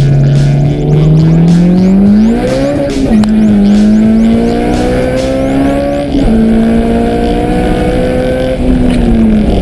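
Turbocharged Honda B18C 1.8-litre four-cylinder with a Garrett GT35R turbo, at full throttle and heard from inside the cabin. Its pitch climbs, drops sharply twice at upshifts about three and six seconds in, then climbs again and falls near the end.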